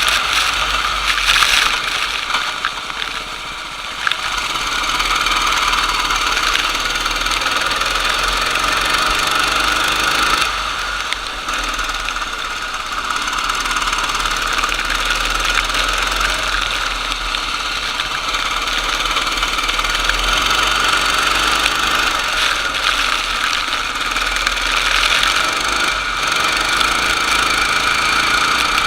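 Racing kart engine running hard at high revs. It eases off briefly a few seconds in and again about ten seconds in, then pulls back up.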